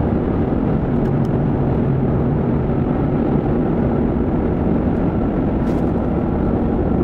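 Steady road and engine noise inside the cabin of a moving vehicle.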